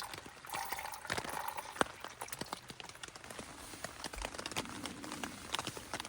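Light rain falling: a steady faint hiss with many irregular drips and ticks of raindrops.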